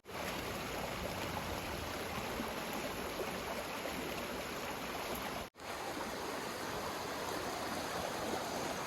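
Canyon creek water running steadily, an even rushing with a brief cut in the sound about five and a half seconds in.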